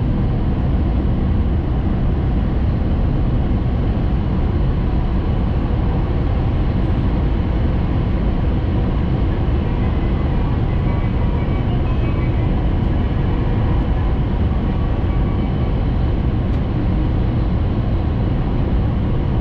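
Steady rumble and rolling noise inside a Shinkansen passenger car running at speed, heaviest in the low end. A faint whine comes in about ten seconds in and fades a few seconds later.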